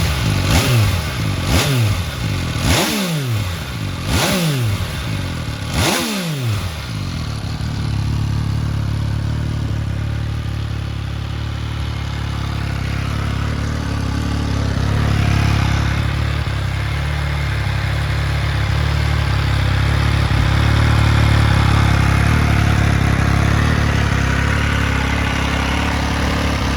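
MV Agusta Rivale 800's three-cylinder engine through an Arrow carbon muffler, blipped sharply about five times in the first six seconds, the revs falling back after each. It then settles into a steady idle.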